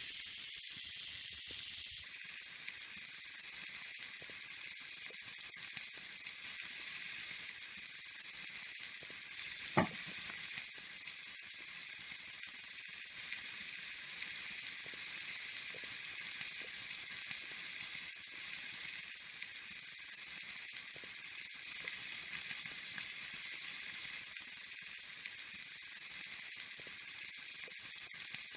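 Lamb kokoreç frying on a tin sheet over a campfire: a steady, even sizzle with small crackles throughout. One sharp pop or click stands out a little before ten seconds in.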